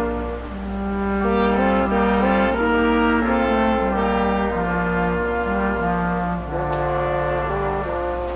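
Brass ensemble of trumpets, trombones and horns playing Christmas music in chords, with held notes in several parts moving every half second to a second or so.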